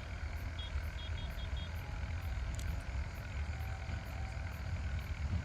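Steady low background rumble, with five faint short high-pitched beeps about a second in.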